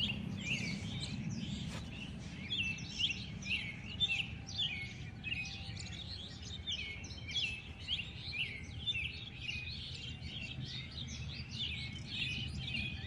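Many small birds chirping in a dense, overlapping chorus of quick, short, high calls, over a steady low background rumble.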